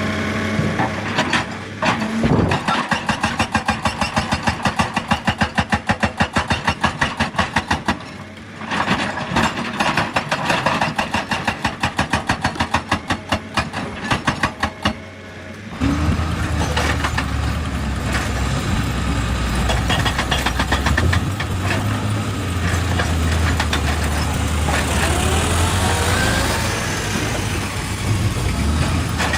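Excavator at work: rapid, even mechanical hammering for about fourteen seconds, broken by two short pauses. The diesel engine then runs steadily under load, with rock scraping near the end.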